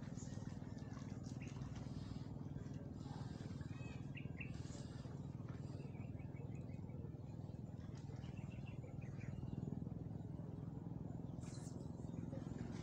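Small birds chirping in short runs of quick, high notes through the middle, over a steady low rumble.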